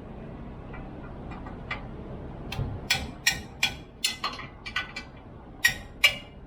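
Irregular sharp metallic clicks and clinks from tools and parts being handled, a few faint ones at first, then about a dozen louder ones from about halfway.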